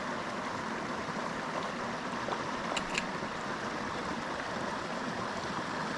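Small mountain creek flowing steadily, a constant rush of water, with a couple of faint short ticks about three seconds in.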